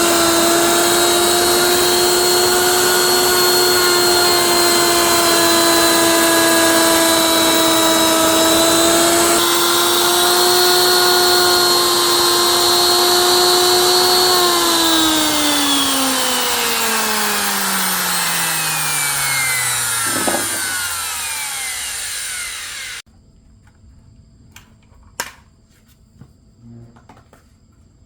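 Mini woodworking machine's electric motor running with a steady whine, then switched off and spinning down, its pitch falling for several seconds. The sound then cuts off abruptly, leaving a few faint clicks.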